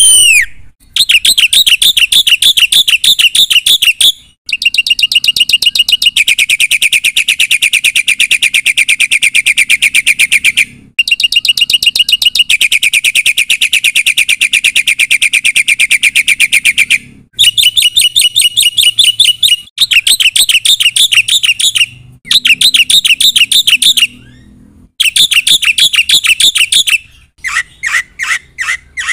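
Black-winged myna (jalak putih) singing loudly in long phrases of fast repeated chattering notes. The phrases last a few seconds each and are broken by short pauses. Near the end the song turns to quicker, clipped separate notes.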